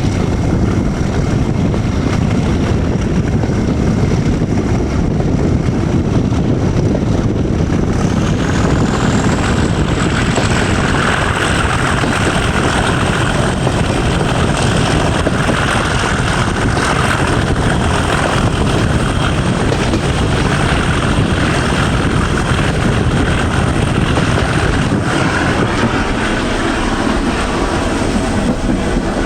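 Class 37 diesel locomotive 37667's English Electric V12 engine working hard, heard from the train behind it. A high steady whistle climbs in pitch about eight seconds in, and the engine's note grows stronger as power builds.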